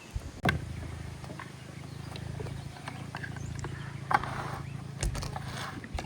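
A low electric hum, like a small electric motor running, starts with a knock about half a second in and stops near the end, with scattered knocks and clicks over it.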